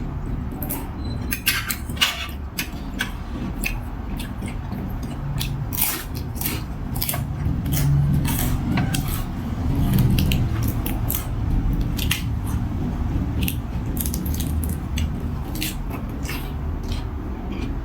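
A person eating close to the microphone: chewing and crunching with many sharp clicks throughout, over a low steady rumble.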